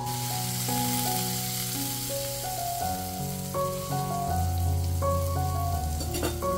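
A ground-beef smash-burger patty sizzling in butter in a hot pan as a spatula presses it flat. Background music with a bass line plays throughout.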